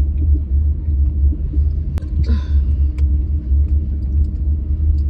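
Steady low rumble of a car driving slowly, heard from inside the cabin, with a faint steady hum. A single sharp click comes about two seconds in, followed by a brief hiss.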